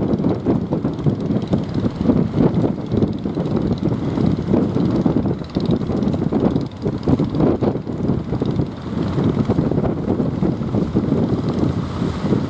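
Strong wind buffeting the microphone, a gusty rumble that rises and falls.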